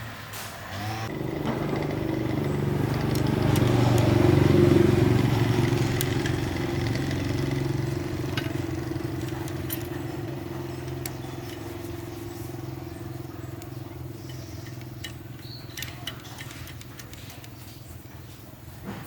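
A motor vehicle's engine running steadily, growing louder to a peak about four to five seconds in, then slowly fading away as it draws off.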